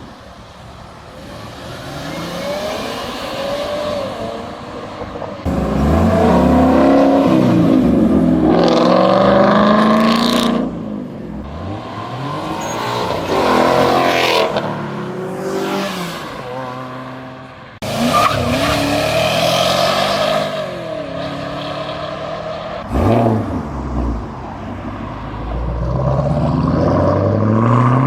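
Several cars accelerating away one after another, engines revving up through the gears, each rising in pitch and then fading as it passes. The sound jumps suddenly in loudness about five and eighteen seconds in.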